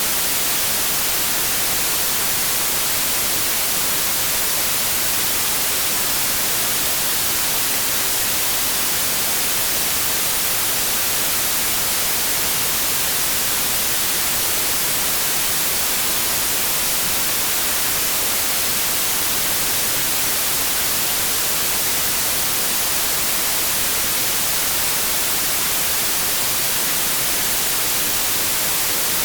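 Steady white noise: an even, unchanging hiss of static with most of its energy in the high end.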